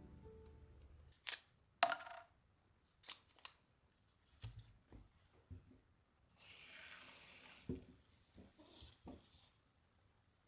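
Small objects being handled in a quiet room: a sharp clink with a short ring, scattered light clicks and knocks, and about a second of rustling.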